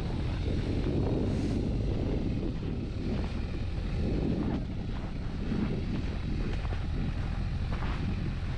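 Strong wind buffeting the microphone in a blizzard, a gusty low rumble, with a vehicle engine running under it.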